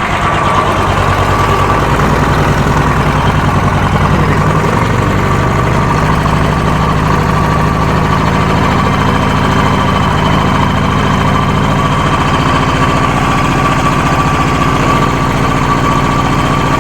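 Royal Enfield 350's single-cylinder four-stroke engine idling steadily, run briefly with the oil drain bolts out to push out the last of the old engine oil.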